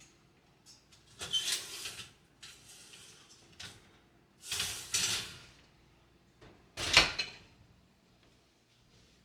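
Household handling sounds: a couple of brief scraping, rustling noises, then one sharp knock about seven seconds in, the loudest sound.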